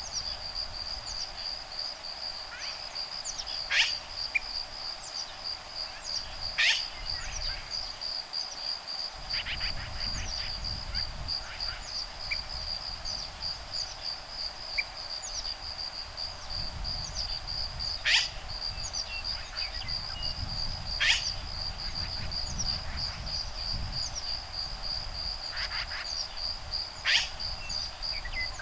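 Woodpeckers calling back and forth: five sharp, loud calls spaced several seconds apart, with softer chirps between, over a steady fast-pulsing high insect trill. A low rumble of breeze comes in about a third of the way through.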